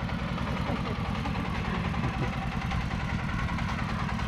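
Engine idling with a steady, fast-pulsing low rumble.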